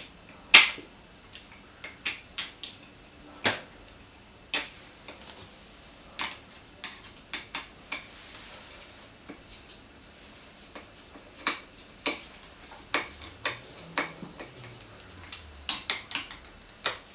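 Screws of a two-part handlebar mount being driven in with a Phillips screwdriver: irregular small clicks and metal taps, some in quick clusters, with short pauses between.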